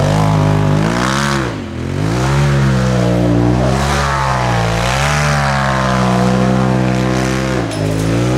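Polaris RZR Turbo S side-by-side's turbocharged engine revving hard, its pitch dropping and climbing again several times as the throttle is worked.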